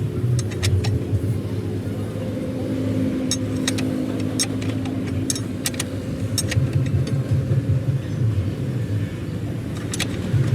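A steady low vehicle-engine rumble, with scattered sharp metallic clicks and taps over it.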